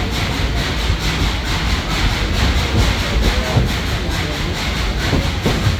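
A moving steam excursion train heard from on board a passenger car: a loud, steady rumble of the cars running on the track.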